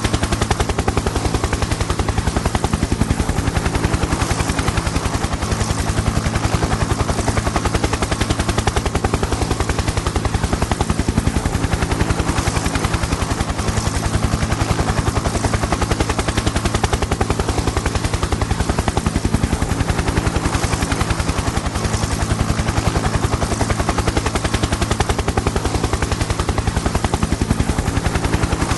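Helicopter in flight: a fast, steady rotor chop over a constant engine and turbine noise.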